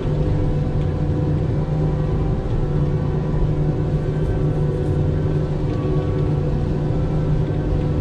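A vehicle engine running steadily at an even speed, a low hum with a strong, unchanging pitch.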